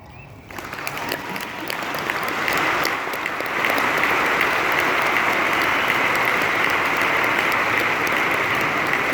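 Audience applauding at the end of a live ambient music performance. It starts about half a second in and swells over the next three seconds, then holds steady.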